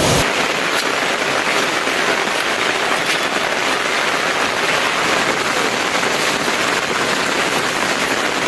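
Steady rain falling: a dense, even hiss with scattered drop hits through it.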